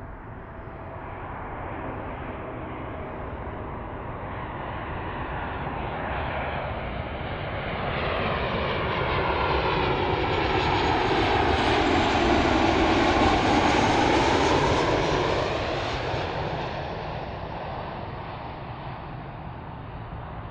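Boeing 737 jet airliner passing on its landing approach: the engine noise grows steadily louder, peaks a little past the middle with a sweeping, phasing hiss, then fades as it goes by.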